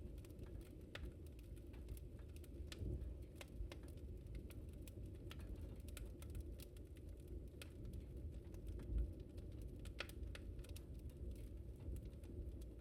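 Wood fire crackling in a fireplace: irregular sharp pops and snaps over a steady low rumble of the flames, with a slightly louder soft thump about nine seconds in.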